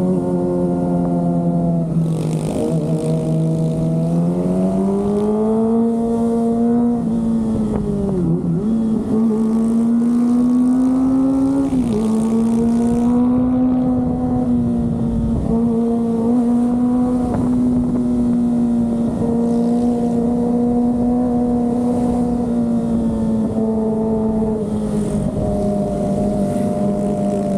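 Kawasaki ZX-25R's 250 cc inline-four engine pulling under way, its pitch climbing as the bike accelerates, with a brief dip about a third of the way in and a drop just before the middle, then holding a fairly steady cruise.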